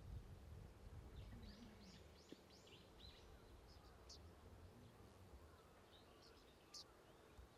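Quiet outdoor background with faint bird chirps: a quick run of about five repeated notes a second and a half to three seconds in, and single chirps later, over a faint low rumble.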